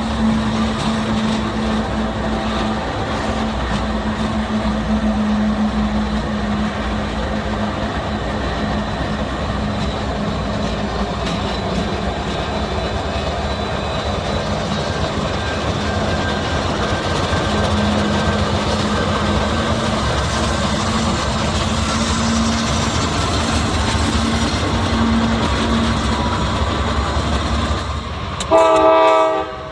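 Diesel freight train running past with a steady engine drone and wheel-and-rail noise. Near the end comes one short, loud blast of a locomotive horn.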